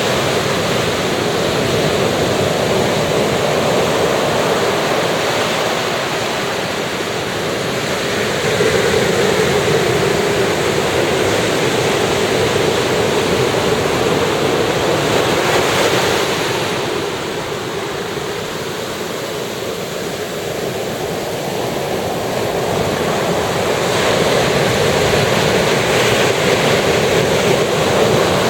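Sea waves breaking and washing up on a sandy beach, a steady rush of surf that swells and eases every several seconds, with a quieter lull a little past the middle.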